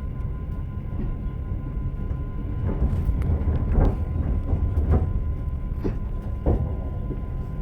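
Train wheels knocking over rail joints under the steady low rumble of a moving railway car. The knocks bunch together from about three to five seconds in, over a faint steady whine.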